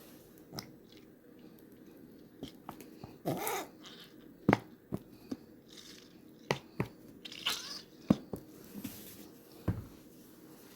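Ranch dressing being added to a bowl of cold spaghetti: scattered sharp clicks and knocks of the container and utensils, with two short wet rushes about three and a half and seven and a half seconds in.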